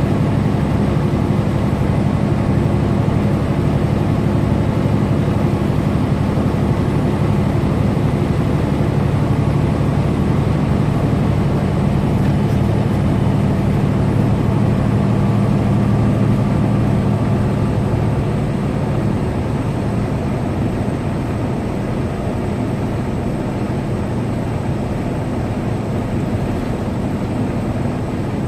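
Semi truck's diesel engine and road noise while cruising on the highway: a steady low drone that eases off a little about two-thirds of the way through.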